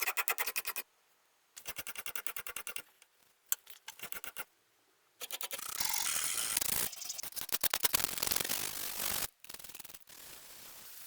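A knife blade being stroked on a whetstone. It makes rapid, rhythmic scraping strokes in several bursts with short pauses between them, loudest in a run in the second half.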